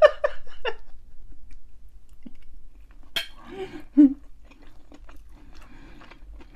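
A person chewing food in small soft bursts. There is a sharp click about three seconds in and a short louder low sound about a second later.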